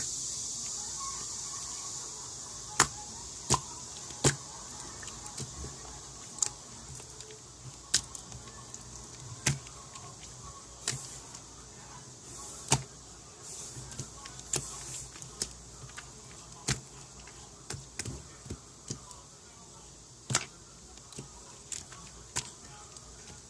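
Slime being played with by hand, giving sharp, irregular pops and clicks as air pockets burst, over a steady hiss.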